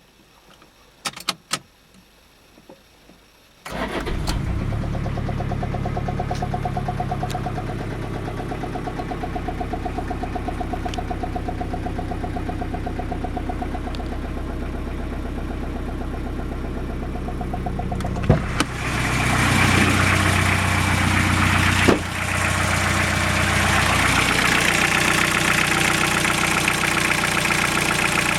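Toyota 3C-TE 2.2-litre turbodiesel is cranked and starts about four seconds in after a few clicks, then idles with a steady rhythmic knocking. About 19 seconds in the sound becomes louder and sharper, with more clattering. The owner puts the knocks down to a non-original fuel line rattling against the engine cover, a worn-out vacuum pump, and incorrect valve clearances.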